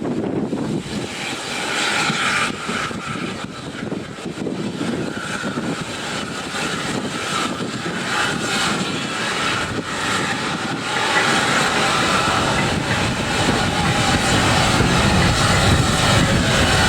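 Steam locomotive and goods train approaching along the track, a steady rumbling noise that grows gradually louder.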